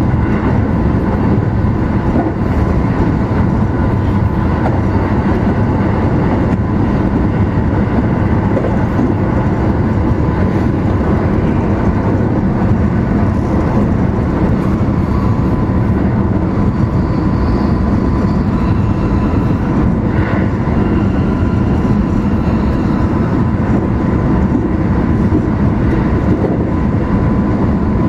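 JR West 221 series electric train running at speed, heard from inside at the front of the train: a steady low rumble of wheels and running gear on the rails, with a thin steady whine above it.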